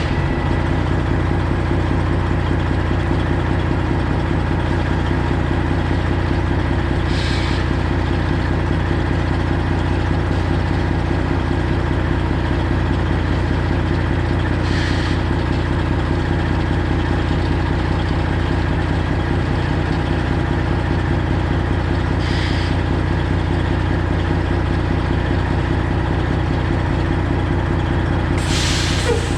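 A straight-piped semi truck's Detroit Diesel 12.7 engine idling steadily, with four brief hisses of air spaced several seconds apart.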